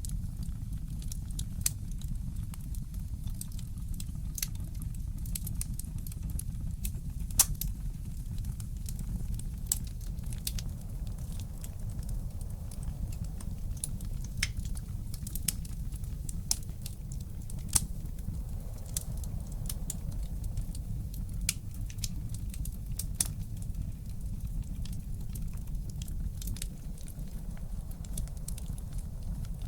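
Wood fire crackling in a fireplace: irregular sharp pops and ticks, a few louder than the rest, over a steady low rumble.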